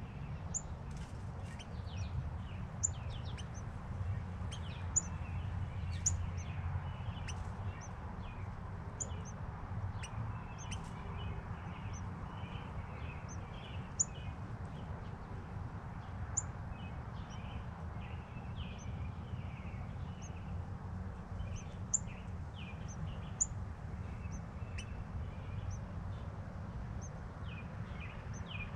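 Birds chirping: short, high chips and quick downward-sliding notes repeating irregularly, over a steady low rumble.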